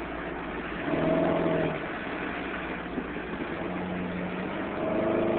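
1994 Chevy Cavalier's 2.2-litre four-cylinder running with a misfire, possibly on two cylinders, from wet spark plug wires arcing. The engine sound swells briefly about a second in and again near the end.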